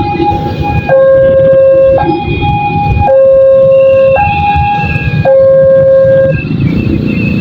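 Railroad level-crossing warning alarm sounding a high-low two-tone signal, each tone held about a second, over the low rumble of a passing train. The alarm stops about six seconds in, leaving the train's rumble.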